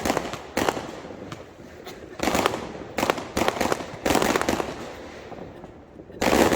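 Fireworks going off: about half a dozen sharp bangs at irregular intervals, each trailing off in a crackle or echo. The loudest comes near the end.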